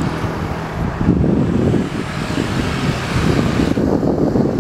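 Diesel locomotive hauling a passenger train as it approaches, the engine running under a loud, dense rumble of wheels on the rails. Near the end the higher hiss drops away suddenly.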